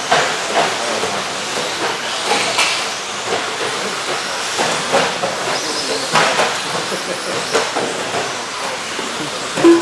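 Pack of 1/10 electric stadium trucks with 13.5-turn brushless motors racing on a dirt RC track: a steady hiss of motors and tyres broken by scattered knocks and clatters. A short steady tone sounds near the end.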